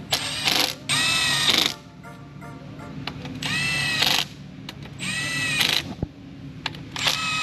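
A cordless power tool runs in about five short trigger pulls, each a whine that dips in pitch and comes back up as it turns the nuts down on the engine's cylinder-head studs. A single sharp click comes about six seconds in.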